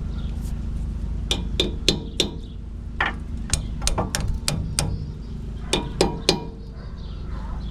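Sharp metal-on-metal knocks and clanks, about a dozen irregular strikes, from tools working a new sway bar link into place on a GMC K1500's front suspension. A steady low hum runs underneath.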